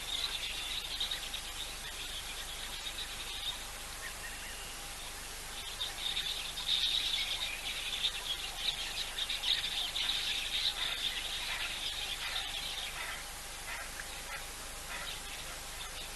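Wild birds chirping and chattering in two spells, the busier one from about six to thirteen seconds in, over a faint steady hum.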